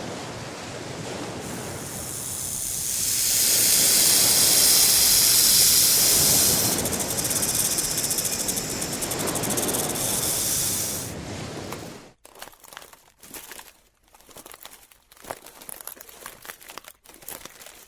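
A hiss that swells loud for a few seconds, then from about twelve seconds in, irregular crackling clicks with short gaps between them.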